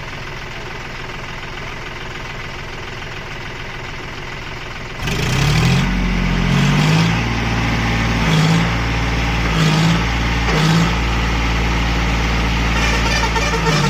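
John Deere 5050D tractor's three-cylinder diesel engine running steadily, then growing suddenly much louder about five seconds in and staying loud, with a recurring low swell.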